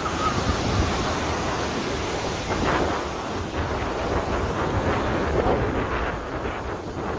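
Rough water surging, with strong wind buffeting the microphone in a steady, loud noise.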